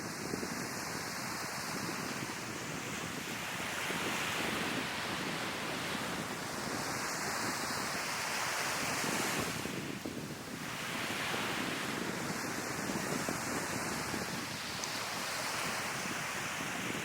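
Sea waves surging and washing onto the shore, rising and falling in slow swells with a brief lull about ten seconds in, with wind buffeting the microphone.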